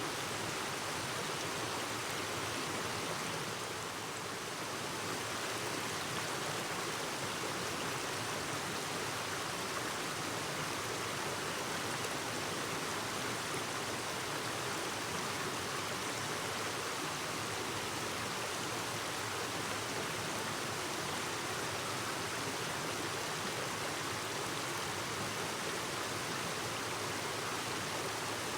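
Clear mountain stream babbling over rocks, a steady rush of water with a slight lull about four seconds in.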